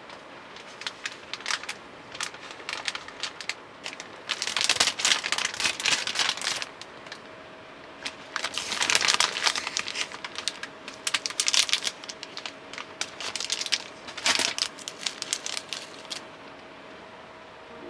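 Plastic packaging of arare rice crackers crinkling and rustling in about five bouts as it is handled.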